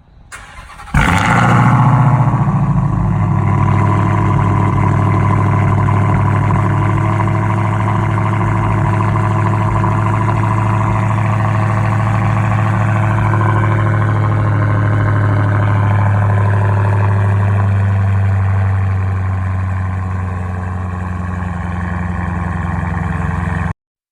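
Dodge Hellcat Redeye's supercharged 6.2-litre Hemi V8 with its mid mufflers and resonators deleted, starting up about a second in with a brief flare and then settling into a steady, loud idle.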